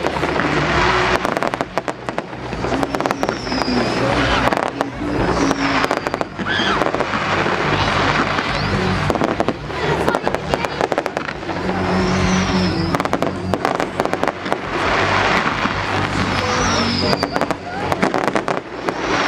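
Fireworks going off in a continuous barrage of crackling bangs and hissing, with short high whistles several times.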